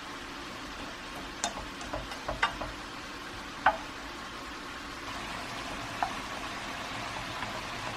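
Home cooking: a steady sizzle, with a kitchen utensil clinking sharply against cookware several times as the food is stirred, the clinks bunched a second or two in and then two more spaced out later.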